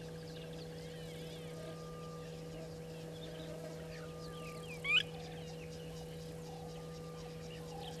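Wild birds calling: scattered chirps and short whistles, with one loud call that sweeps up in pitch about five seconds in, over a steady low hum.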